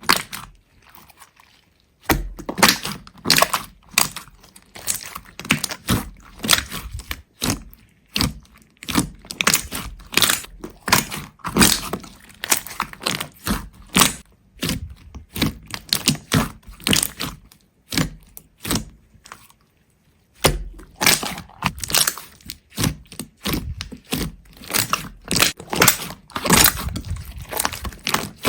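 Rapid sharp cracking and crunching, like something brittle being broken or crushed, in dense runs. It is faint for the first two seconds, then dense, with a short pause about twenty seconds in.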